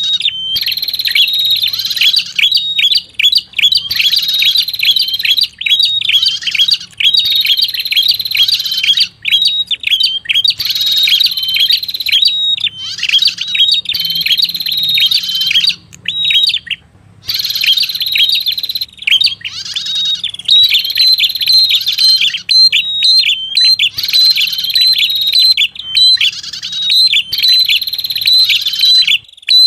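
Lure-call recording of the prenjak kepala merah (red-headed prenjak) singing: rapid, shrill chirps repeated almost without pause in long runs, broken now and then by brief gaps. A faint steady low hum lies underneath.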